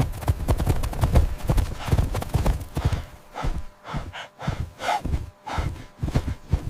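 Hooves galloping: a rapid, irregular drumming of many hoofbeats that thins out about three seconds in, with short animal snorts and calls after.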